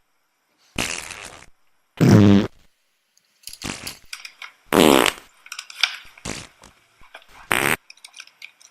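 A run of dubbed-in fart sound effects: short bursts of varying length with brief silences between them. Some have a buzzy pitch, and the loudest come about two seconds in and about five seconds in.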